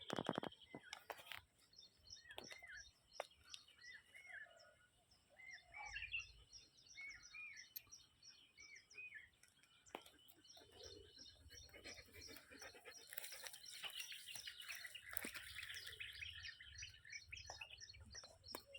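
Faint birdsong: several small birds chirping, with quick high chirps repeating throughout and curling calls between about 2 and 9 seconds in. There are a few clicks near the start and low rumbles underneath later on.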